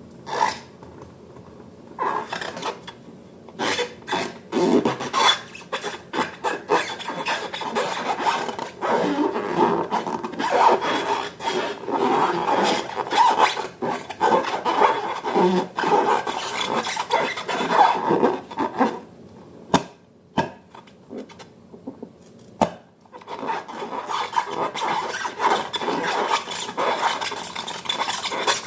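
Slime being worked by hand or stirred: irregular sticky rubbing and squishing with small crackles and pops, pausing briefly a few times.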